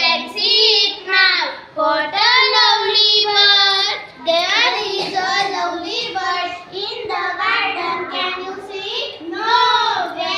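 Children singing an action song together, the high voices continuous with only brief breaths.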